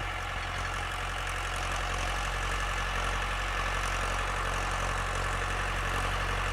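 A vehicle's engine running steadily, its sound growing slowly louder as it comes up the hill.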